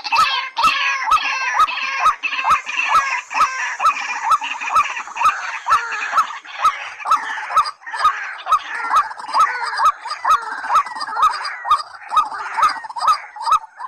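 Calls of white-breasted waterhens and watercocks: a hooked, rising note repeated about three times a second with a sharp click on each beat, over a dense chorus of overlapping higher chattering calls.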